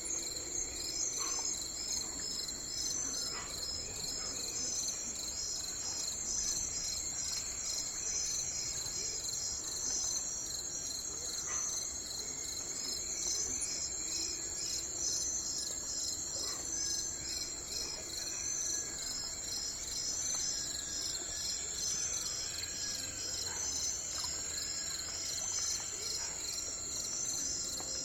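Steady chorus of insects chirring high and fast, with a bird calling now and then; in the second half a bird repeats a short arched call note about five times.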